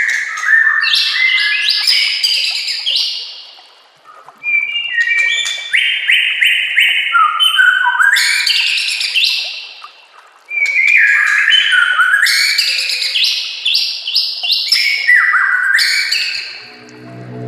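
White-rumped shama (murai batu) singing: three long phrases of rapid, repeated notes that step up and down in pitch, with short pauses about four and ten and a half seconds in.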